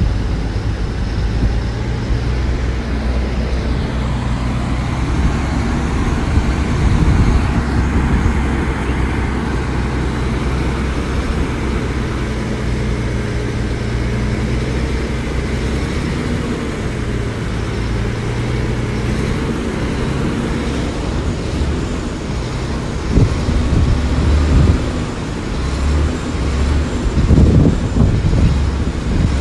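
Diesel engines of a small bulldozer and dump trucks running steadily, with louder knocks and rattles toward the end.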